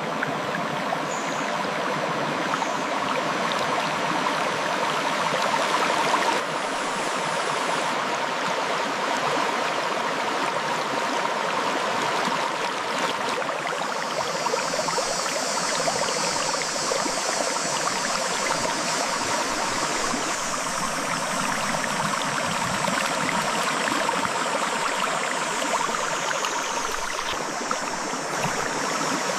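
A shallow river flowing over rocks: a steady rush and babble of water. A brighter high hiss joins about halfway through.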